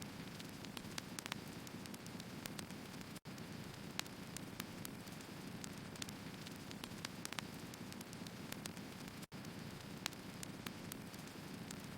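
Wood fire burning: a steady low rushing hiss with irregular sharp crackles and pops from the burning logs. The sound cuts out for an instant twice, about three seconds in and again about nine seconds in.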